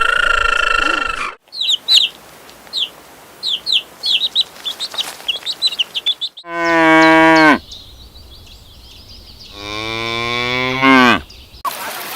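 A short high call at the start, then a run of quick high bird chirps, followed by a cow mooing twice: two long low moos, the second drawn out and rising then falling in pitch.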